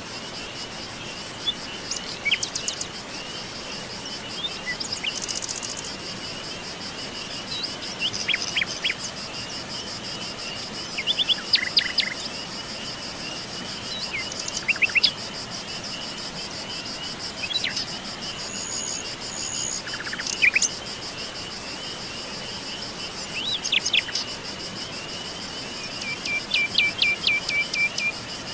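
Forest birds chirping and trilling in short, scattered calls every few seconds over a continuous high-pitched insect trill.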